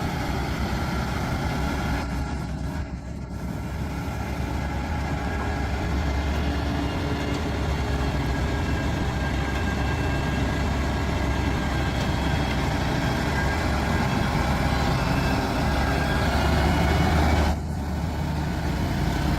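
Heavy semi-truck engine running steadily under load, pulling a heavy lowboy trailer up a steep mountain grade. The sound dips briefly about two to three seconds in and again near the end.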